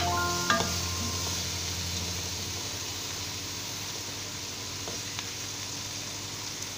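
Steady sizzling in an aluminium pot as pieces of fried fish are stirred with a wooden spatula, with a couple of light knocks of the spatula.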